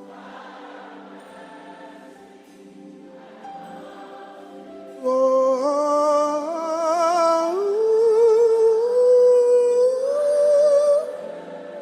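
Live worship music: a soft sung chorus over held chords, then about five seconds in a loud solo voice comes in with a long wordless line with vibrato, climbing step by step in pitch before breaking off near the end.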